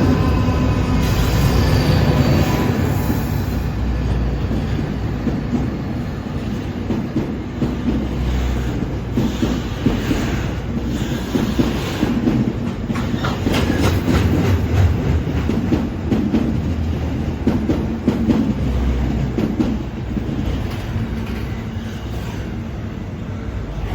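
A train running past on the rails, its wheels clicking over rail joints, loudest at the start and slowly fading. A steady whine dies away in the first couple of seconds.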